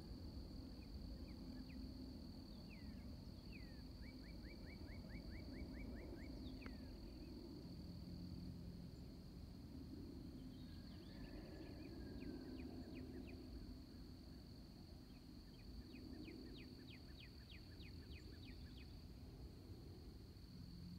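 Songbird singing several short trills of rapid repeated notes over a steady, high-pitched insect drone and a faint low rumble.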